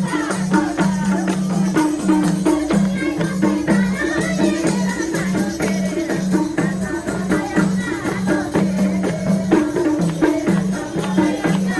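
Instrumental interlude of Nepali dohori folk music: steady hand percussion with tambourine-like jingles over a repeating low melodic figure.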